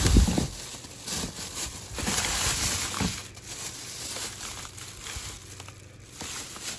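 Crinkling and rustling as packaged toiletries are handled, with a thump at the very start.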